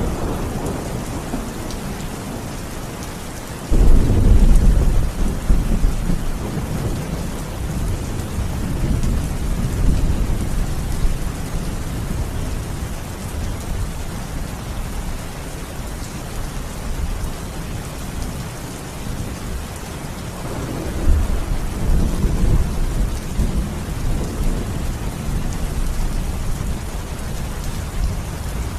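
Steady heavy rain falling, with thunder rolling in: a sudden loud low rumble about four seconds in that fades away over several seconds, and a second rumble about three-quarters of the way through.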